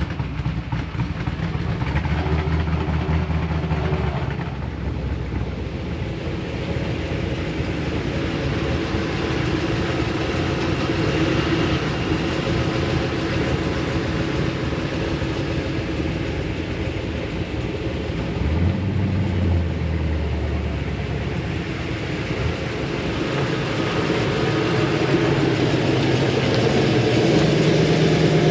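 Pickup truck engines running at low speed, with a louder, deeper engine coming in about two-thirds of the way through and the sound swelling near the end.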